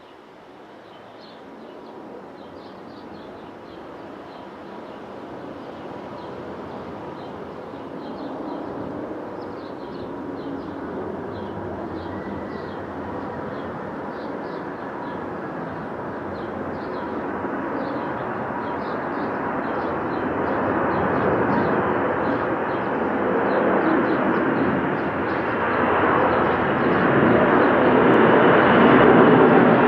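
Boeing 747-400F four-engine jet on approach, its engine noise growing steadily louder as it nears, with a steady whine coming through near the end. Birds chirp over it in the first part.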